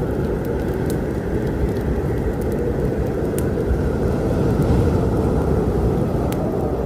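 A steady low storm rumble, with a wood fire crackling over it in a few sharp, scattered pops.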